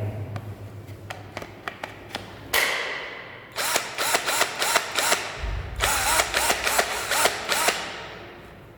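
Brushless 21V cordless drill motor run in a string of short trigger bursts, its whine rising and falling as the variable-speed trigger is squeezed and eased, after a few light clicks of handling.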